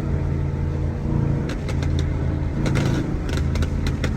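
Car engine running with a steady low drone while driving, with scattered short sharp clicks over it.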